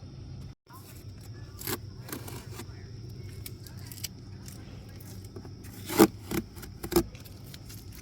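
Gear being handled: a scattering of sharp knocks and clinks, the loudest about six seconds in and two more soon after, over a steady low hum.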